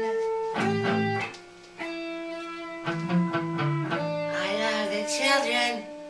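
Guitar-led rock song: held guitar chords and picked notes with a short quiet gap about a second and a half in, and a single sung word, "children", near the end.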